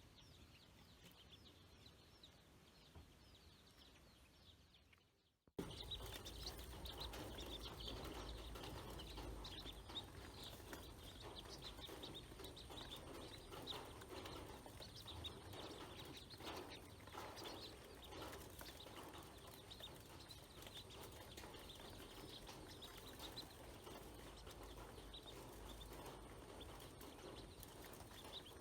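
Ducklings peeping, many short high calls overlapping, faint for the first few seconds and then steadier and closer after an abrupt jump about five seconds in.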